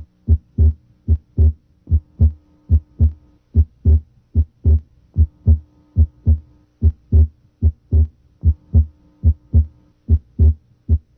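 Heart sounds heard through a stethoscope diaphragm at the left sternal border: a regular lub-dub of the first and second heart sounds, about 75 beats a minute. The second sound is split, and the split comes and goes with deep breathing, an abnormally wide splitting of S2.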